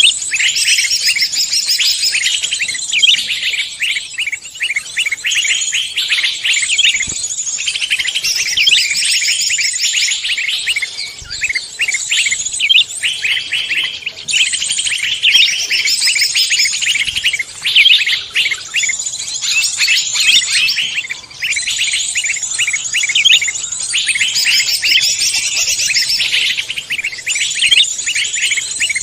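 Many songbirds chirping and trilling over one another without pause: a dense, layered mix of forest songbird calls used as a bird-luring (pikat) track.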